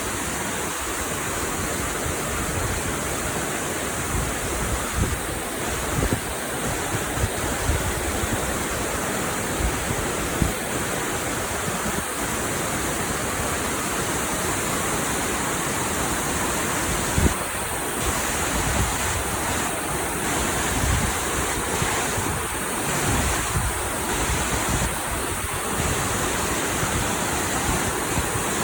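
Steady rushing of a large waterfall's falling water, with irregular low gusts of wind buffeting the microphone.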